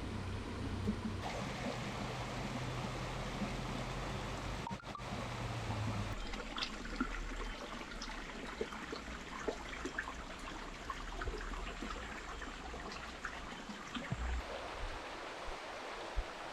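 A river flowing with a steady rushing noise, with scattered small clicks and taps over it from about six seconds in.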